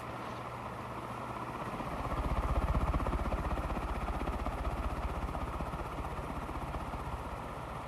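1979 Envirofan Gold Line industrial ceiling fan running on high speed: a steady whoosh of the blades and motor. A low rumble swells about two seconds in and slowly eases off.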